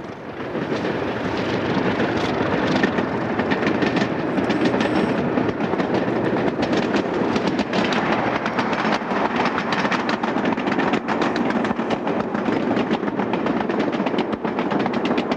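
Overnight sleeper train running along the track: a steady rumble that builds over the first couple of seconds, then rapid, regular clicks of the wheels over the rail joints that grow more distinct near the end.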